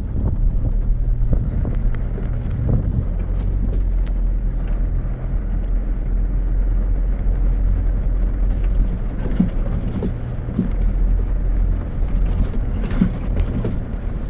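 Four-wheel-drive's engine running steadily as it climbs a rough bank out of a sandy riverbed, with scattered knocks and rattles over the bumps, more of them in the second half.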